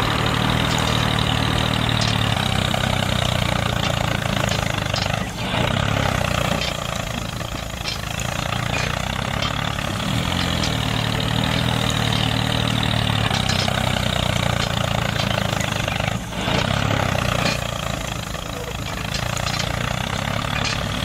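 An engine running steadily at a low idle-like beat, tractor-style, with short dips about five seconds in and again about sixteen seconds in.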